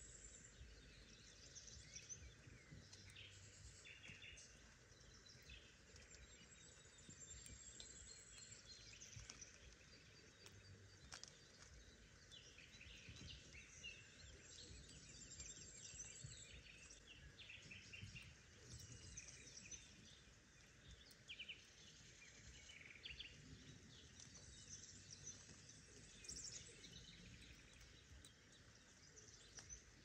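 Faint birdsong: several small birds chirping and trilling over a quiet, steady background hiss.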